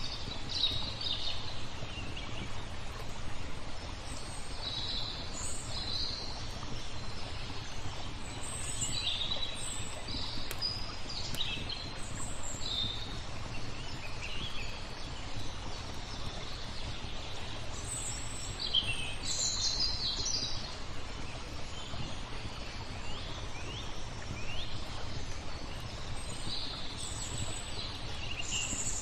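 Small birds chirping and twittering in short calls scattered throughout, over a steady wash of flowing water, with a few sharp crackles from a wood fire.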